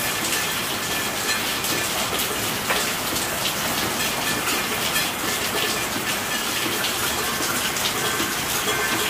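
Steady rain: a continuous hiss of falling water with many small drop impacts scattered through it.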